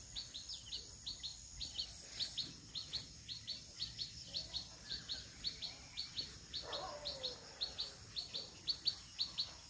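A bird calling a quick, even series of short, high, falling chirps, about four a second, over a steady high-pitched whine. A lower, sliding call sounds once about seven seconds in.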